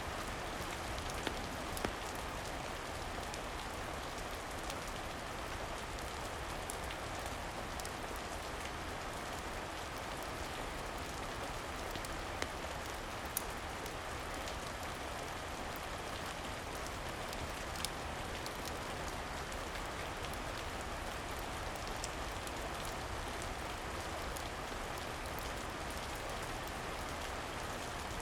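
Steady rain falling, with a handful of sharp crackles from a wood fire scattered through it.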